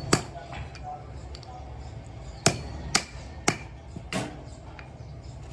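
Hammer striking metal: five sharp blows, one at the start and then four in quick succession about half a second apart from about two and a half seconds in, over a low workshop hum.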